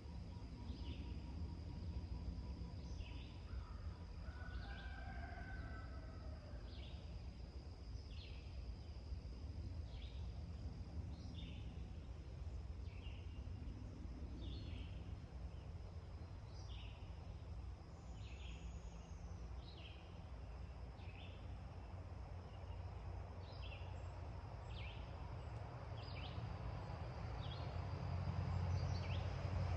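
Dawn farmyard ambience: a bird repeats a short, falling call about once a second, with a few other bird calls about five seconds in. A steady high thin tone and a low rumble run underneath, and the rumble grows louder near the end.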